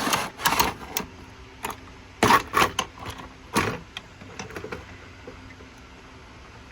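Plastic toy trains clicking and clattering as they are handled and set down, in a cluster of sharp knocks over the first four seconds.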